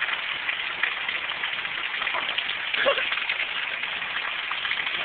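Heavy rain falling steadily with a dense, fine crackling patter.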